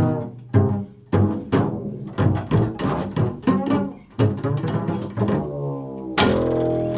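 Improvised music on a low-pitched plucked string instrument: a quick run of sharply plucked, ringing notes, ending about six seconds in with a louder plucked chord that rings on.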